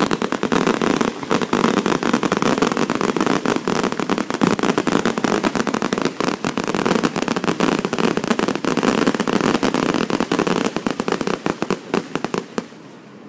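Aerial fireworks barrage: a dense, rapid string of sharp cracks and bangs from many shells bursting at once, breaking off just before the end.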